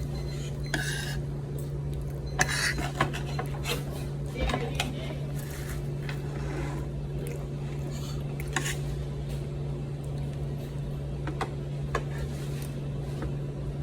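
Meal eating sounds: utensils and dishes clinking and scraping in scattered short clicks, a few sharper around the middle, over a steady low hum.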